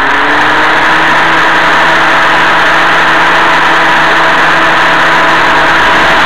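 Mazda 626 V6 engine running, its hum rising slightly in pitch in the first second, under a loud steady rushing of fans.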